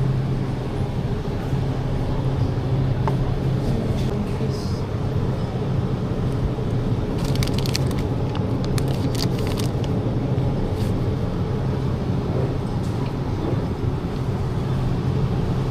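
Steady low mechanical hum, with a short run of crackling clicks about seven to nine and a half seconds in.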